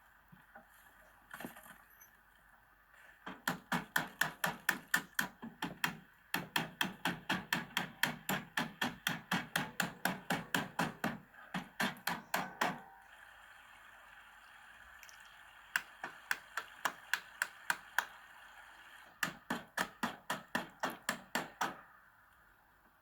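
Hammering on wood in quick runs of even blows, about five a second, stopping and starting several times.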